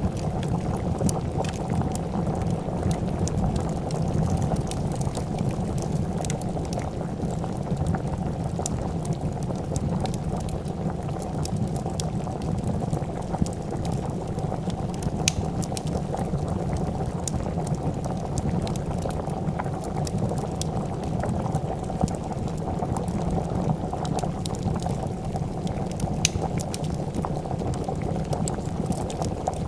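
A pot of soup bubbling at a steady boil, with sharp crackles and pops of a wood fire scattered through it.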